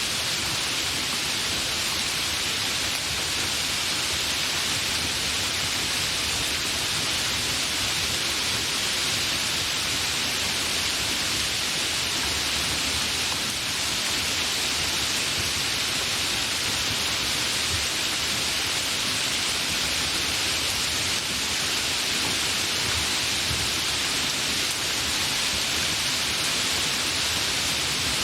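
Steady, fairly heavy rain falling, an even hiss that holds level throughout, with no thunder.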